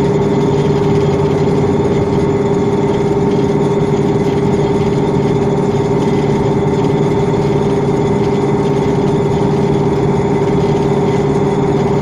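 KamAZ dump truck's V8 diesel engine running at a steady speed while driving, a constant drone with a steady hum, heard from inside the cab.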